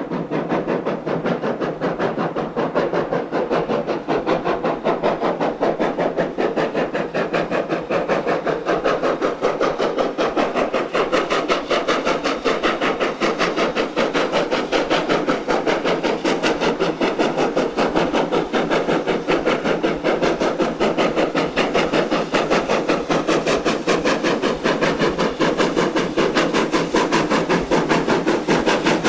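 2-8-0 steam locomotive working steadily, its exhaust chuffing in a quick, even rhythm with a hiss of steam. The sound cuts in suddenly at the start.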